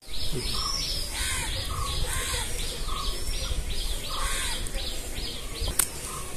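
Birds chirping over and over in short arched calls, a few a second, with one sharp click near the end.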